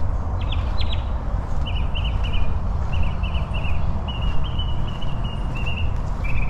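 A bird calling in quick runs of short, repeated chirps over a steady low rumble.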